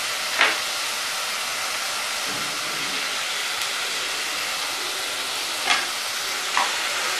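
Onions, garlic and tomatoes sizzling in hot oil in a pressure cooker pan: a steady hiss with a few short clicks.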